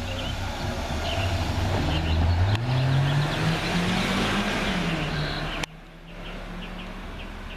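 A motor vehicle driving by, its engine pitch rising as it accelerates and growing louder toward the middle, then the sound cuts off suddenly about five and a half seconds in. Birds chirp faintly in the background.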